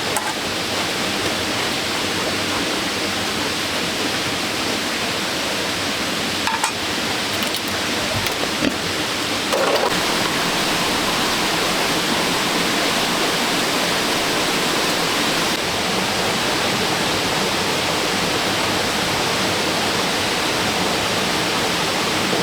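Steady rushing water noise, with a few faint knocks about seven to ten seconds in.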